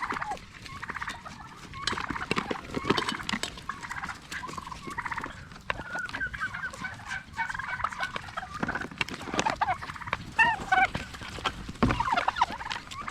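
Domestic turkeys calling again and again in quick warbling runs, with a few higher rising-and-falling calls near the end.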